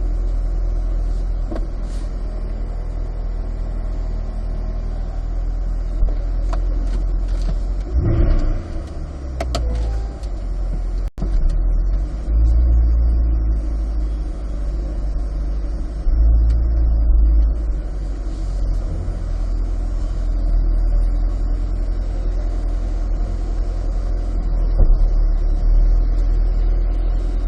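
Chevrolet Corvette C8 being driven, heard from inside the cabin: a steady low drone of its V8 and road noise, swelling several times as the car accelerates.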